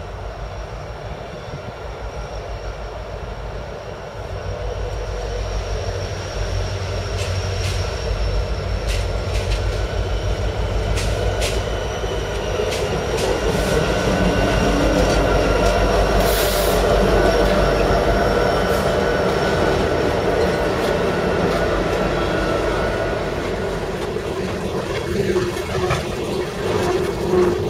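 BNSF diesel locomotives, EMD SD70ACe and GE Evolution-series units, approach and pass close by with a deep engine rumble that builds to its loudest around the middle. Empty coal hoppers follow, rolling by with wheel clatter, a few sharp clicks and some high-pitched wheel squeal.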